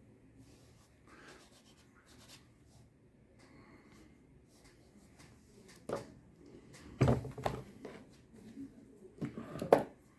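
Hand work on a shoe: quiet rubbing and scraping, then several sharp knocks and clicks, the loudest a cluster about seven seconds in and another near the end.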